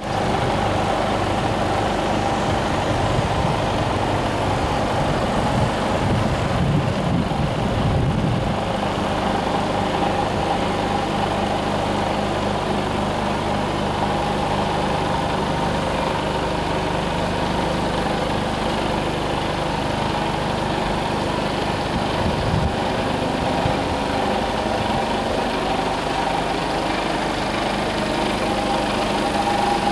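Mercedes-Benz 2663 truck's diesel engine idling steadily, its low rumble briefly swelling about six seconds in.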